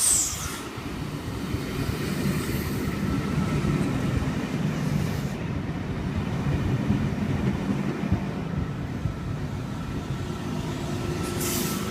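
V-set electric intercity train at the platform: a steady low rumble with a thin, steady whine above it.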